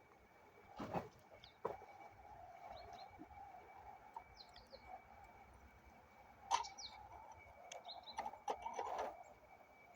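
Faint bird chirps over quiet outdoor background, broken by several sharp knocks and clinks: a strong one about a second in, another about six and a half seconds in, and a cluster near the end.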